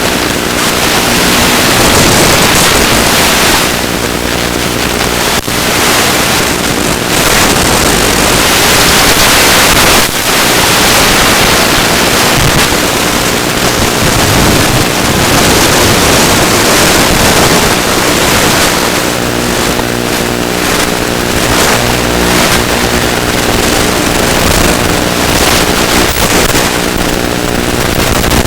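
Small electric motor and propeller of a ZOHD Drift FPV plane running steadily, heard through loud wind rushing over the microphone. The motor's tone sinks under the wind noise a couple of times.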